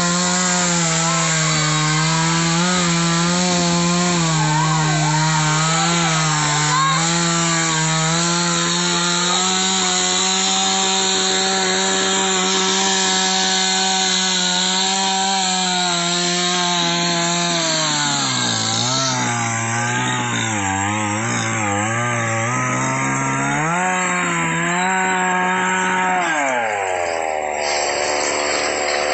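Chainsaw running at high speed while cutting wood. Its pitch sags several times in the second half as the chain bogs down in the cut, then winds down near the end.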